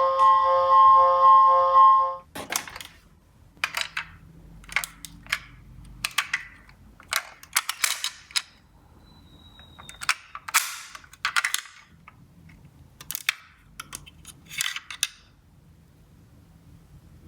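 A steady electronic tone stops about two seconds in. After it, toy minicars clatter and click against each other and the cardboard slope in a string of sharp, irregular clicks.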